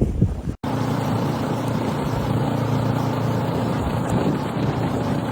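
A motor vehicle running steadily, a constant engine hum and rumble, starting after an abrupt cut about half a second in.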